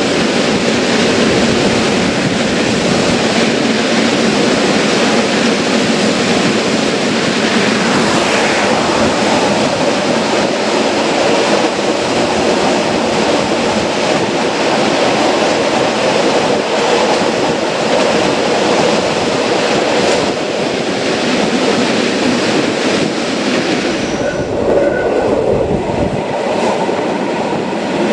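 Matterhorn Gotthard Bahn metre-gauge train running, heard from a carriage window: a steady rumble and rush of wheels on rail.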